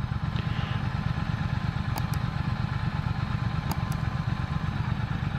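Motorcycle engine running steadily with a low, fast-pulsing rumble while riding, under an even haze of wind and road noise. Two faint double clicks come about two seconds in and again near four seconds.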